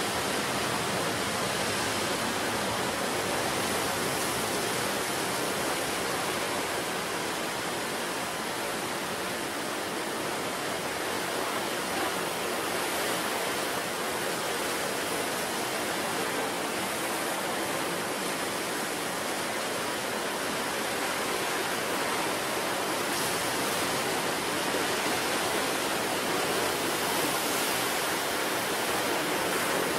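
Ocean surf: a steady, continuous wash of breaking waves, swelling a little near the end.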